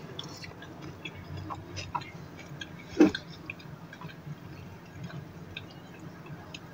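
Soft chewing of french fries with small wet mouth clicks, then cola being sipped through a straw from a glass bottle. One louder knock comes about three seconds in.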